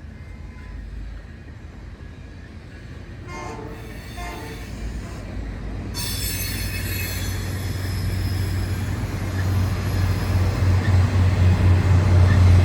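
Train horn sounding faintly and briefly about three and a half seconds in. From about six seconds the noise of the train's wheels on the rails, with squealing, builds steadily louder over a low rumble.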